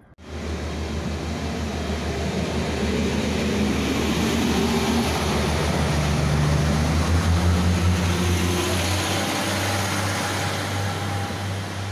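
Diesel multiple-unit train passing close by: a steady low engine drone under the broad rushing noise of the train running on the rails. It starts abruptly, builds to its loudest past the middle and eases slightly near the end.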